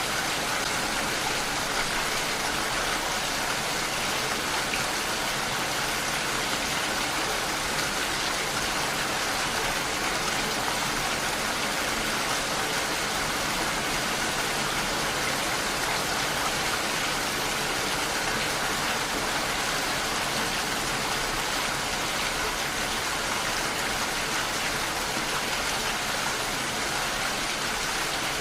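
Steady rainfall, an even hiss of many drops with no distinct strikes.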